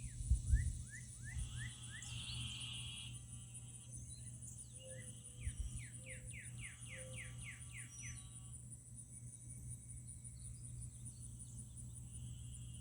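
Wet-ground outdoor ambience: a steady, high-pitched insect drone, with a bird singing runs of quick downward-slurred notes and buzzy trills coming and going.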